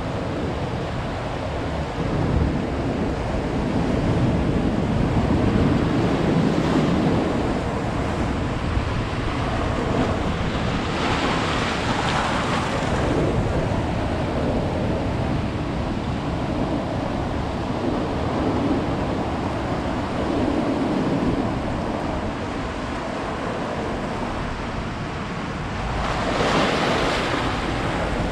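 Ocean surf: waves breaking and washing up the beach in a continuous rushing noise that swells and ebbs, with two louder hissing breakers, one near the middle and one near the end.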